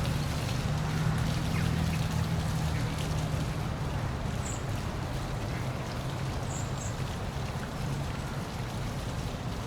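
Waterfall rushing and splashing steadily, with a deep low rumble under it. A few faint high chirps come in about halfway through.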